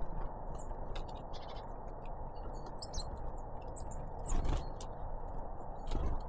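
Small songbirds, great tits and blue tits, giving short high chirps at a feeder, with a few sharp knocks and clicks over a steady low background rumble.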